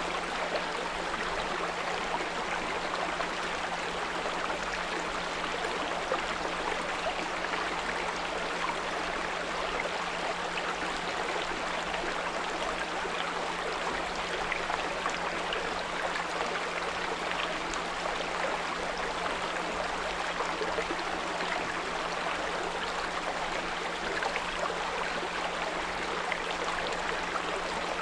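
Small brook babbling and trickling steadily, with a constant 174 Hz pure tone humming underneath.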